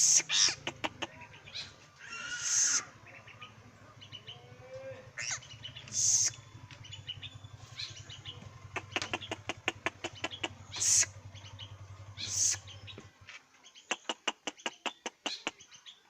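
A bird moving about, with several short rustling bursts and runs of quick clicks and taps. A low steady hum stops about 13 seconds in.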